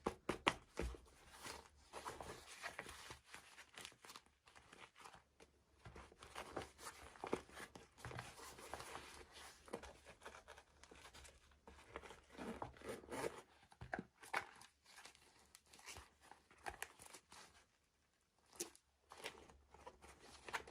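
Hands opening and handling small plastic toy packaging: irregular, quiet crinkling and tearing with small clicks, and a brief pause near the end.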